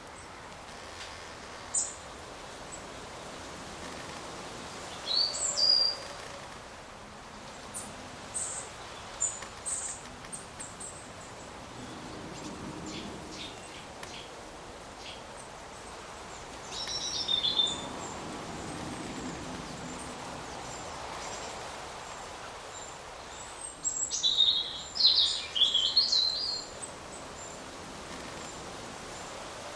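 Wild songbirds chirping and singing in short, separate phrases, with a longer, louder run of song near the end, over a steady background hiss of forest ambience.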